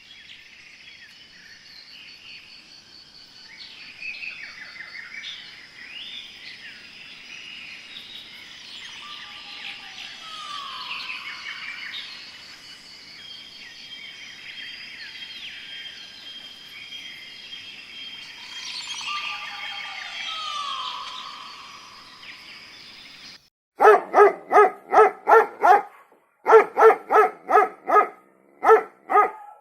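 Birds calling, with chirps and whistles, some gliding downward, over a steady high background tone. Near the end this cuts off suddenly and gives way to loud rapid barking, about three barks a second, in short runs.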